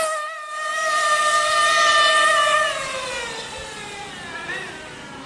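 Radio-controlled car's electric motor whining at a steady high pitch, then winding down and falling in pitch as it slows, from about two and a half seconds in.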